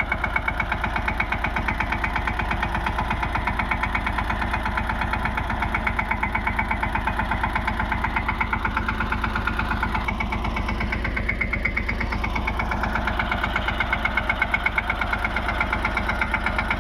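Mini tractor engine running steadily with an even, rapid pulse, its tone shifting briefly about ten seconds in.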